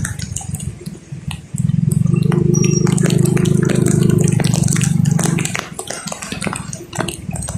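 Raindrops tapping irregularly on a car, with a loud low hum that cuts in about one and a half seconds in and drops out again near the end.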